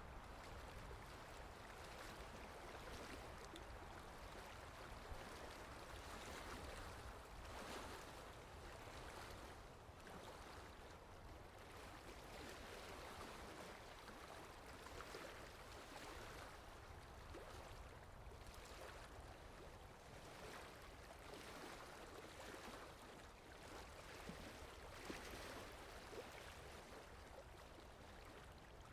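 Faint water lapping in wind: a soft, continuous wash that swells and eases irregularly, over a low steady wind rumble.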